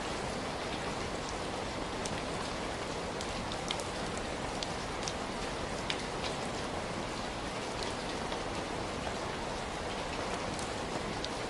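Heavy rain falling steadily, a dense even hiss with the sharp ticks of individual drops striking a surface scattered through it.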